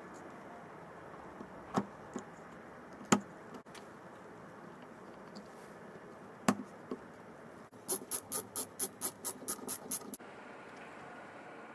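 Sharp clicks and knocks of hard objects: three single knocks, then a quick run of about ten clicks, roughly five a second, near the end.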